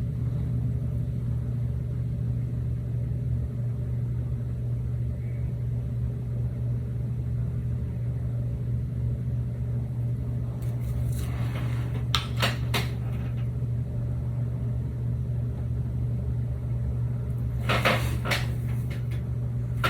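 A steady low hum, with a few light clicks and knocks about eleven to thirteen seconds in and again near the end.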